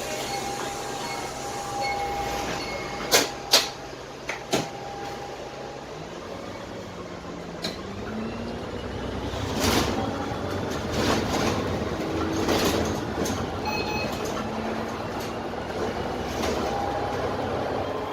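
Inside the lower deck of a Dennis Trident double-decker bus: its Cummins ISMe diesel engine and Voith automatic gearbox running, with a few sharp knocks and rattles about three to four seconds in, then the engine note rising steadily as the bus accelerates.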